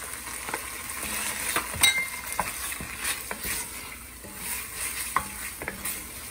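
Chicken pieces sizzling gently in curry paste and coconut milk over low heat, stirred with a wooden spatula in an enamelled cast-iron pot. Scattered knocks of the spatula against the pot, with a brief ringing clink about two seconds in.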